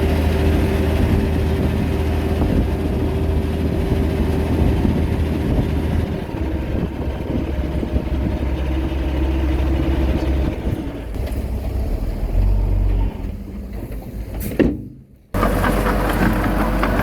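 Heavy diesel engine of earthmoving machinery running steadily, its note changing about ten seconds in. Near the end there is a sharp knock, the sound drops out for a moment, and the engine comes back.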